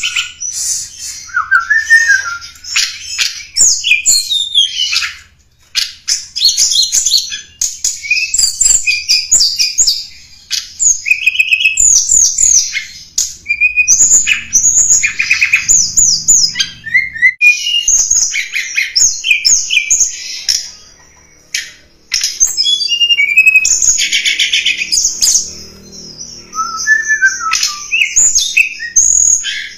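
Tledekan gunung songbird singing: fast runs of high, sweeping chirps and trills, broken by a few short pauses. It is a lure recording of the bird's song, used to draw in wild birds of the same kind.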